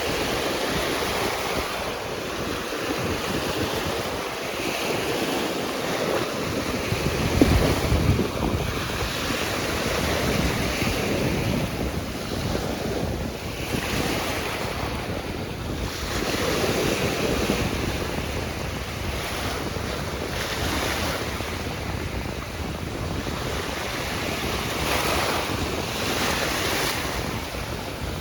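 Ocean surf washing in and out, swelling and fading every few seconds, with wind buffeting the microphone, strongest about seven seconds in.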